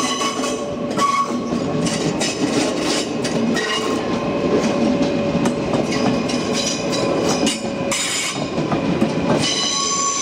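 NS VIRM double-deck electric train running past, its wheels clicking over rail joints, with a high squeal that is strongest near the end.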